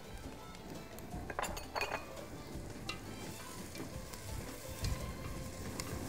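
Chopped onion, garlic and green chilli sizzling as they fry in an aluminium pot, stirred with a wooden spoon. A few knocks of the spoon against the pot come about a second and a half in.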